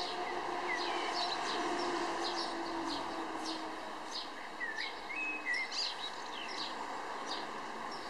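Small birds chirping outdoors, with many short, quick high calls scattered through, busiest around the middle, over a steady background hiss.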